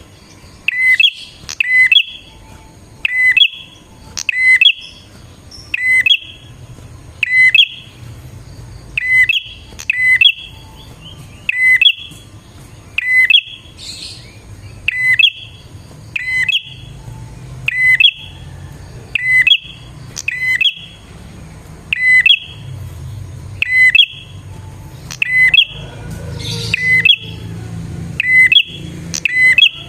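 A prinia (prenjak) calling insistently: a short, sharp, high call repeated about once every second or so, each note alike. A faint low rumble runs underneath.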